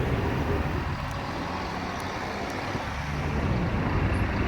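Steady low engine rumble with street traffic noise.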